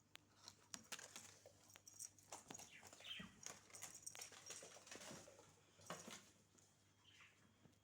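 A cat batting a ball around: faint, irregular light taps and knocks.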